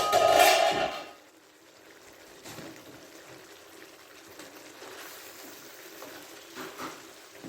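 Stir-fry chicken cooking in a pan with a low steady sizzle, after a brief loud ringing clatter in the first second.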